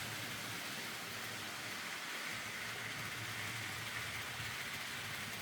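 Faint, steady running noise of N gauge model trains on the track, a soft whirr of small motors and wheels on rail.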